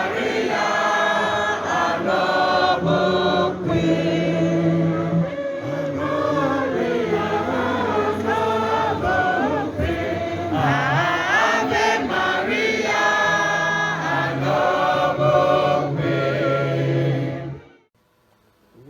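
A choir singing a hymn together, many voices holding and moving between notes. The singing cuts off suddenly near the end.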